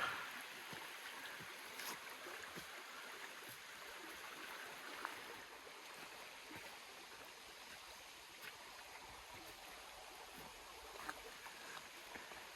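Steady, faint rushing of a flowing river or stream, with a few light clicks scattered through it.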